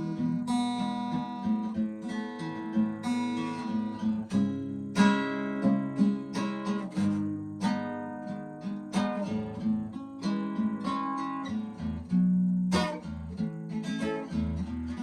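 Solo acoustic guitar playing an instrumental break, picked and strummed chords ringing out one after another, with no singing.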